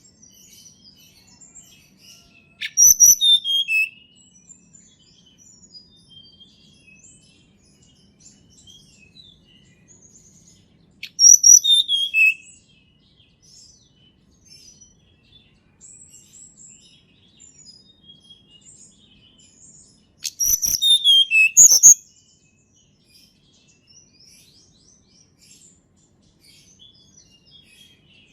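A tledekan gunung (mountain forktail-type songbird) calling in the wild: three loud phrases about nine seconds apart, each a quick run of high notes falling in pitch. Faint chirps of other birds sound in between.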